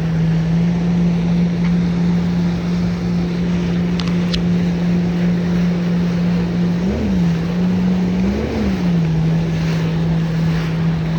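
Jet ski engine running at steady throttle, its pitch rising briefly and dropping back twice, near the middle and a little later. Wind rushes over the phone's microphone, with water noise underneath.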